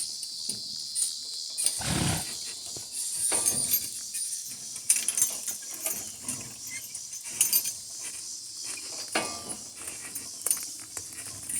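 Insects trilling steadily in a high chorus, with scattered clicks and clinks and a short louder rush about two seconds in.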